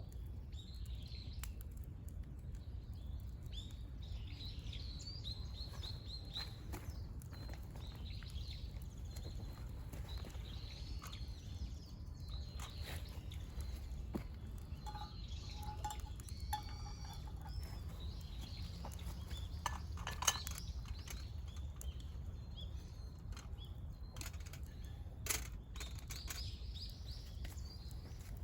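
Wild birds chirping and calling in short repeated notes over a steady low background rumble, with a couple of sharp knocks about twenty and twenty-five seconds in.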